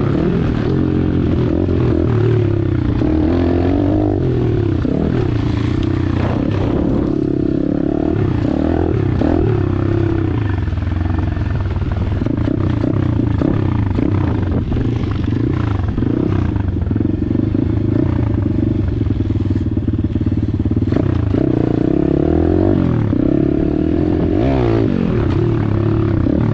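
Small single-cylinder four-stroke pit bike engine at speed, its revs climbing and dropping again and again through gear changes and braking.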